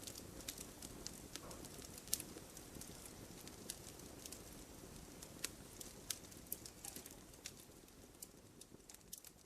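Wood fire burning in a fireplace, faint: irregular sharp crackles and snaps of the logs over a soft, steady low rumble.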